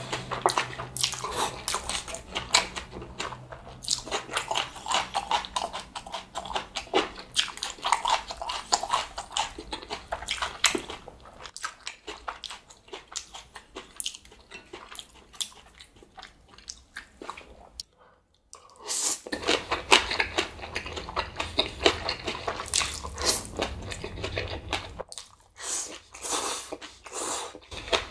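Close-miked eating sounds: rapid wet chewing and biting of black bean instant noodles and spicy green onion kimchi. There is a brief pause about two-thirds of the way through.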